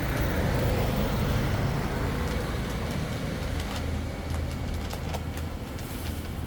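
An engine running steadily with a low hum, with a few faint clicks in the second half.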